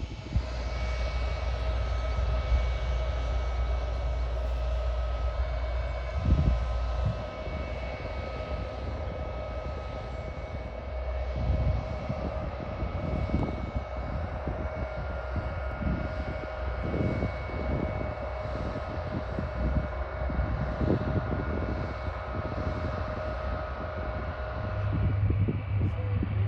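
Bombardier Global 8000 business jet's twin GE Passport turbofan engines running at taxi power: a steady whine with a low rumble underneath.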